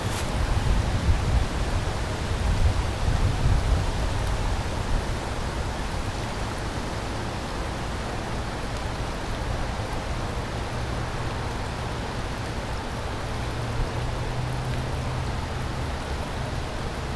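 Steady rushing noise of fast-flowing, rain-swollen river water and falling rain, with a low rumble that is heavier in the first few seconds.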